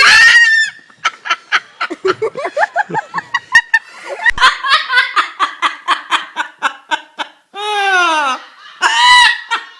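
Laughter: a long run of rapid ha-ha pulses, followed near the end by two loud drawn-out calls, the first sliding down in pitch.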